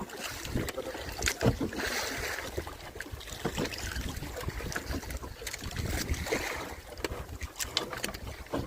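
Water splashing and sloshing with irregular knocks and clicks, and wind buffeting the microphone.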